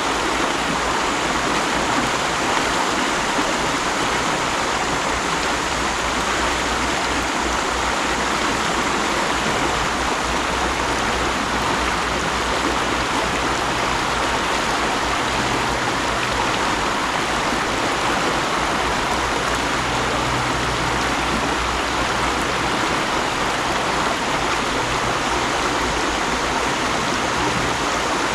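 Mountain stream flowing, a steady even rush and babble of water.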